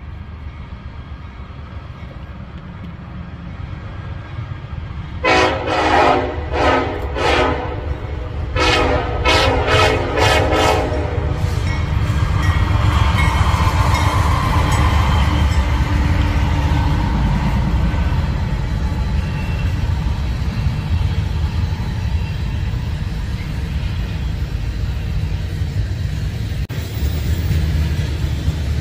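Norfolk Southern diesel freight train approaching: a low engine rumble builds, the locomotive sounds a series of horn blasts over about six seconds, the last one longest, then the locomotive passes close by and the tank cars roll past with steady wheel-on-rail noise.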